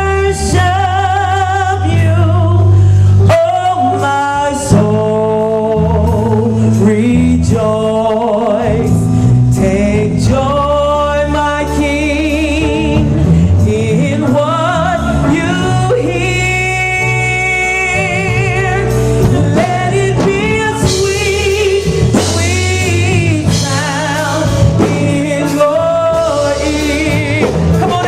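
Gospel praise team singing with instrumental accompaniment: a lead voice with wavering vibrato and long held notes over backing voices and steady low notes.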